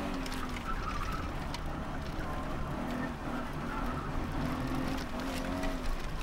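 Alfa Romeo 33 1.3 VL's flat-four boxer engine heard from inside the cabin, driven hard: its pitch rises and falls repeatedly as the driver accelerates and lifts between turns, over a steady rumble of road and wind noise.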